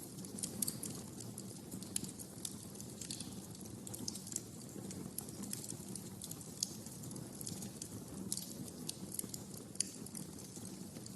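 Wood fire crackling in a fireplace: dense, irregular small pops and snaps over a steady low rumble of burning, with a few sharper pops standing out.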